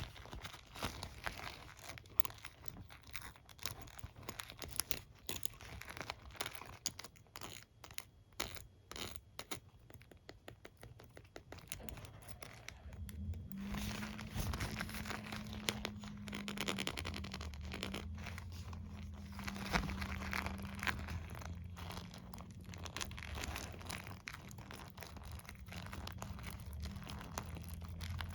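Plastic comb and hairbrush bristles scratched and rubbed close to the microphone: a dense, irregular run of small crackling clicks. About halfway through it turns into continuous rubbing with a low steady hum underneath.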